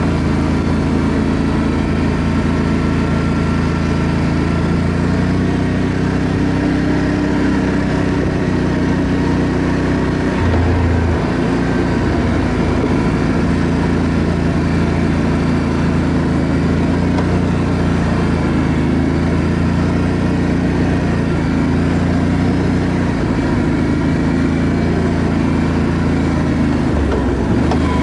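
ATV engine running steadily under way, with its pitch shifting slightly about ten seconds in and again near the end.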